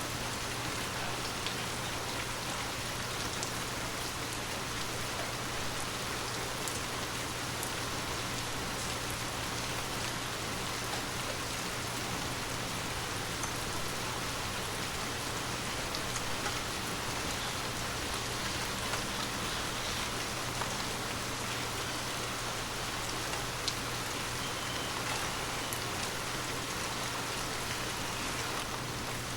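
Water drops tapping on glass in a dense, steady patter, with now and then a sharper single tick standing out, over a faint steady low hum.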